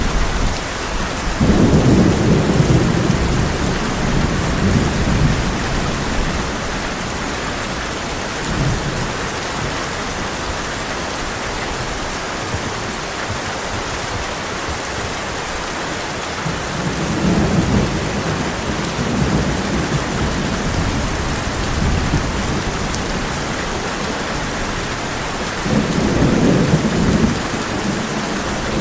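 Heavy rain falling steadily on a tin roof, with thunder rumbling low three times: about two seconds in, again past the middle, and near the end.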